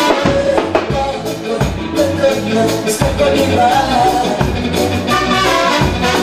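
A live band playing upbeat dance music with a steady beat and a bass line.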